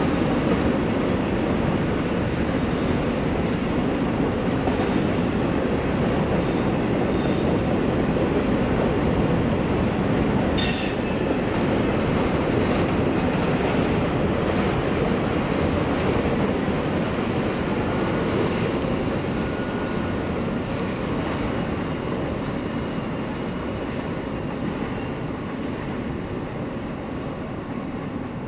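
Freight cars of a passing train rolling by: a steady heavy rumble of wheels on rail, with brief high-pitched wheel squeals now and then. It grows quieter over the last several seconds as the end of the train goes past.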